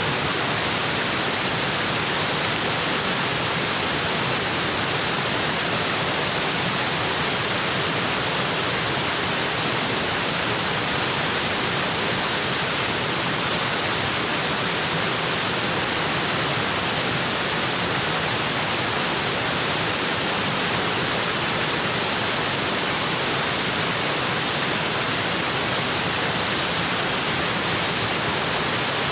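Waterfall: water falling onto rocks with a steady, unbroken rush.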